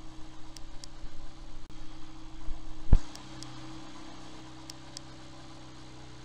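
Autobianchi A112's small four-cylinder petrol engine idling steadily after a cold start, with a single sharp thump about three seconds in.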